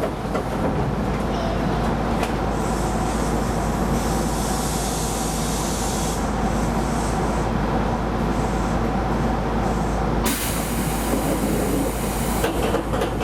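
Keisei Line commuter train running, heard from inside the front car: a steady rumble and hum of wheels on rails. A louder hiss swells up about ten seconds in and drops away again before the end.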